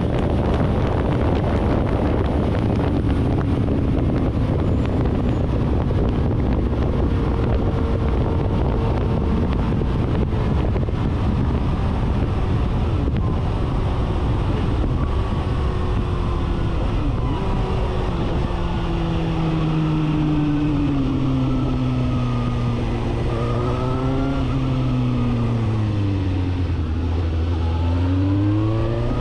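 Suzuki GSR750's inline-four engine through a 4-into-1 full exhaust while riding, over heavy wind rumble on the microphone. The engine note sinks slowly as the bike slows. A few short revs rise and fall a little after three-quarters of the way through, then the note climbs again near the end as it accelerates.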